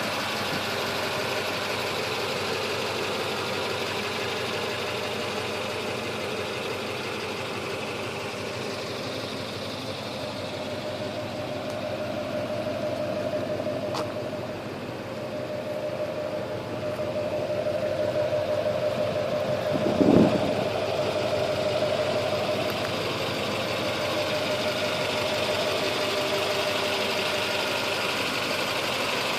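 Duramax 6.6-litre V8 turbo-diesel idling steadily with its diesel clatter; the truck has all eight injectors new and its DPF deleted. It swells a little in loudness through the middle, with a brief low thump about twenty seconds in.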